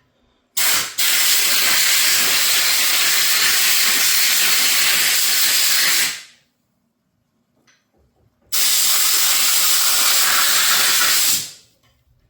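Two long bursts of loud, steady hissing spray from a pressurized nozzle, each starting abruptly and lasting about three to five seconds, with a pause of a couple of seconds between them. This is the sound of parts being blasted clean after a citric-acid rust-removal soak.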